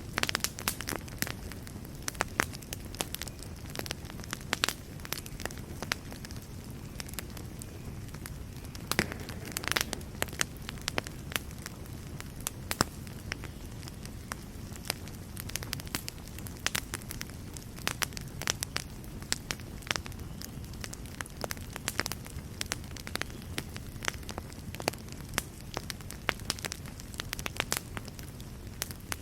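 Wood fire in a fireplace crackling and popping, irregular sharp snaps over a low steady rumble of burning.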